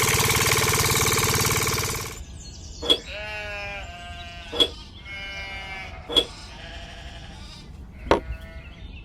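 A motor runs steadily and cuts off suddenly about two seconds in. Then come a run of wavering, sheep-like bleating calls, with four sharp clicks spaced a second or two apart.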